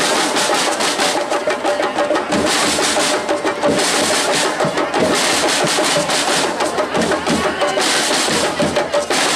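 Percussion group drumming: a loud, busy drum rhythm with crashing cymbals in places.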